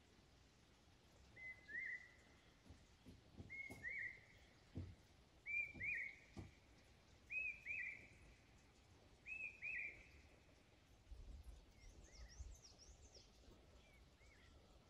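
A songbird repeating a short double whistled call about every two seconds, each note a quick upward-hooked whistle. The calls grow louder through the middle and then fade, with fainter high twittering near the end.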